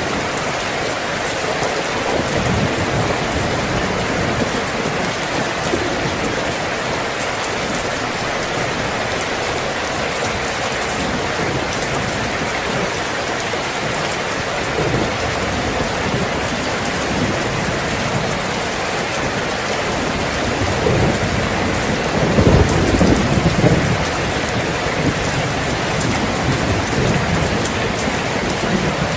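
Steady rain falling. About three quarters of the way in, a low rumble of thunder swells and fades.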